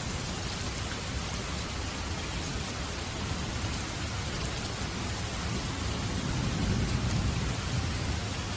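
Steady rain falling, with a low rumble of distant thunder swelling about six seconds in.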